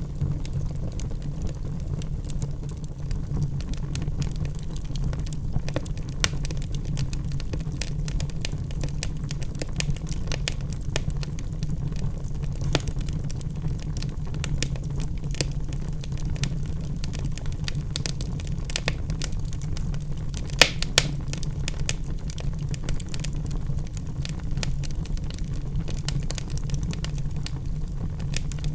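Wood logs burning in a fireplace: a steady low rumble with frequent small crackles, and two sharper pops about two-thirds of the way through.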